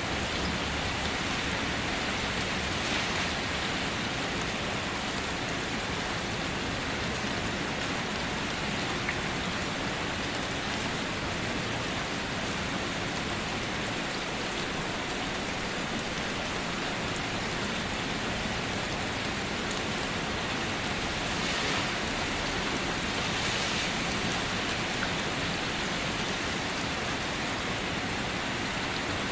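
Steady rain falling, an even hiss with faint ticks of single drops and slight swells in strength now and then.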